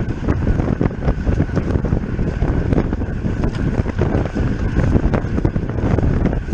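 Wind rushing over the camera microphone of a moving road bike, a loud steady buffeting with rumble and rattly knocks from the ride.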